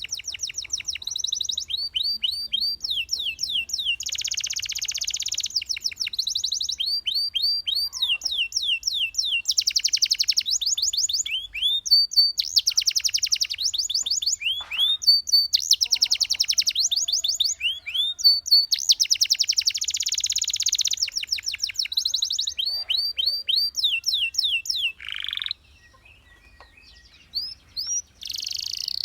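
Domestic canary singing: long rapid trills of repeated high chirping notes, switching between phrases, with some buzzing rolls. The song breaks off for about two seconds near the end, then resumes.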